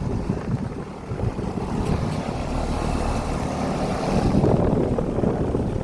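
Air-conditioner condensing units running in cooling mode: a steady compressor hum and condenser-fan airflow, with some wind noise on the microphone.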